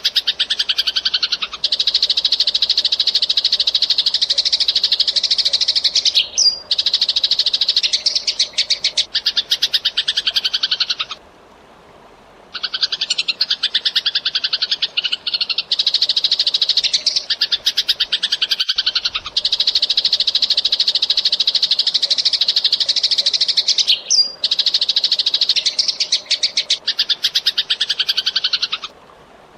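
Eurasian tree sparrow chattering in fast, dense runs of high-pitched chirps, in long bouts broken by a short pause about eleven seconds in and another near the end.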